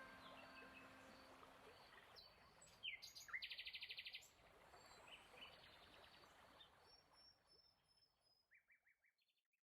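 Small songbirds chirping, with one fast trill of about ten notes a second from about three to four seconds in, over the last of a harp note fading away. The birdsong thins out and stops near the end.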